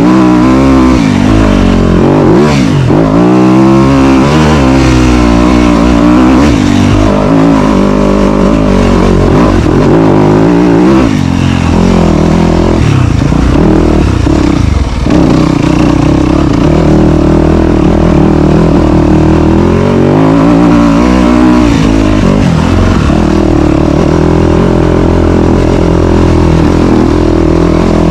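Dirt bike engine under way on a trail, revving up and down as the throttle is worked, its pitch climbing and falling repeatedly, with a couple of brief let-offs near the middle.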